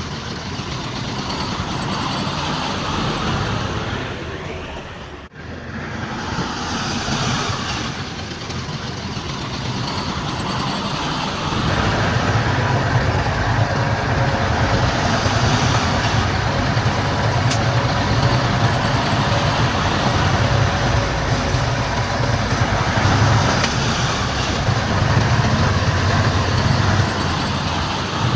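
Heavy diesel earthmoving machinery running; about twelve seconds in the engine gets louder, with a deep rumble.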